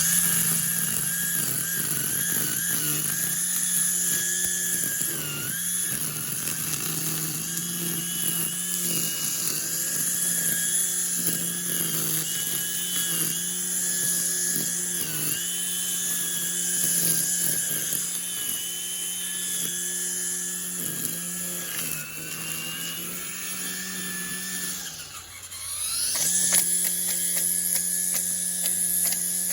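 String trimmer running flat out, its high whine wavering slightly as the line cuts through growth. About 25 s in the trigger is let off so the speed sags, then it is throttled straight back up to full speed.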